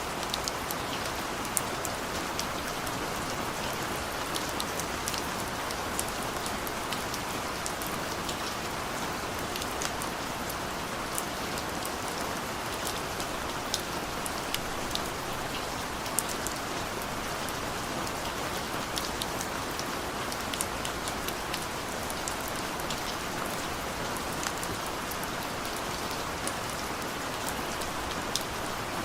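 Steady rain falling, with scattered individual drops ticking sharply above the even wash of the downpour.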